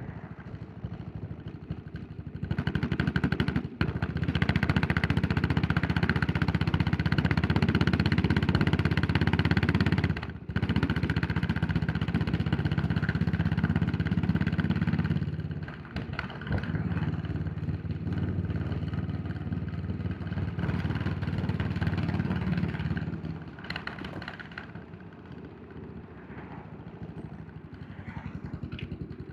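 Yamaha SR400's air-cooled single-cylinder four-stroke engine under way, pulling hard with two brief breaks in its note early on, as at gear changes. It eases off about halfway, then drops to a quieter, lower run near the end before picking up again.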